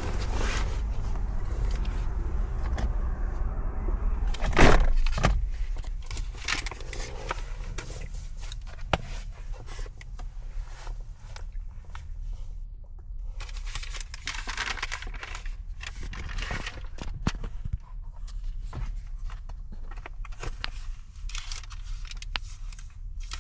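Handling noises, with rustling and scattered clicks, over a steady low rumble; one louder rustle comes about five seconds in.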